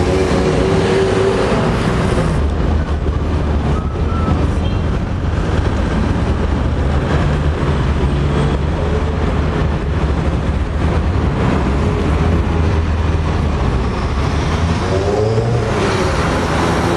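Ferrari F355 Spider's V8 engine running low and steady amid street traffic, with its pitch rising and falling briefly near the end as the car pulls away.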